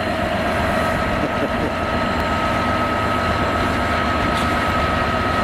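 DB Cargo Class 66 diesel locomotive, an EMD two-stroke V12, running as it hauls a train of empty flat wagons past, with the wagons' wheels rolling over the rails. A steady rumble with a steady high whine over it.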